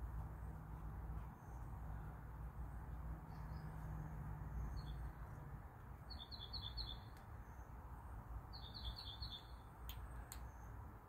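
A songbird chirping: two quick runs of about five high notes each, about six and eight and a half seconds in, with a few single chirps before them. A faint low steady hum stops about halfway through.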